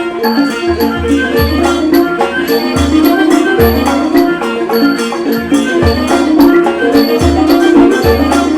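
Thai classical ensemble playing a homrong overture: quick struck notes on mallet percussion over deep drum strokes that fall roughly once a second.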